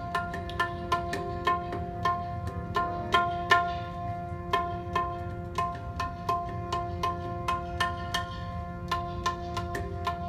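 Tabla playing a steady rhythm, about two to three strokes a second, under sustained harmonium notes, in an instrumental passage of Sikh kirtan with no singing.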